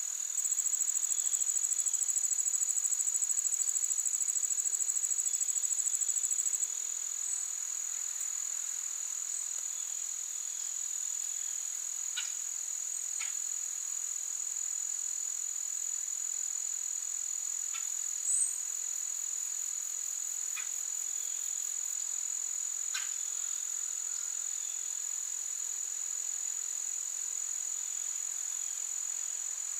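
Insects, crickets or similar, keep up a steady high-pitched chorus. A nearer insect trills in rapid pulses over it and stops about six seconds in. A few faint short chirps or ticks come through in the middle.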